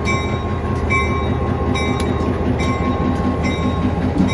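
Switching locomotive moving slowly, its bell ringing about once a second with a clear ringing tone over the steady rumble of its diesel engine.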